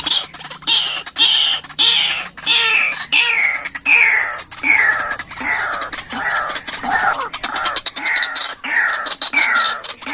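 White-breasted waterhen (ruak-ruak) calling: a long run of harsh, repeated notes, each sliding down in pitch, a little under two a second.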